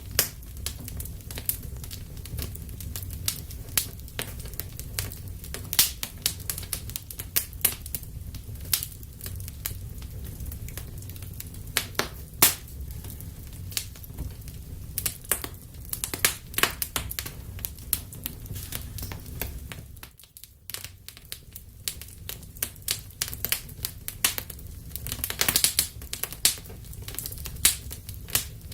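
Wood fire burning in a fireplace: irregular sharp crackles and pops over a low steady rumble of the flames, with a denser run of crackling near the end.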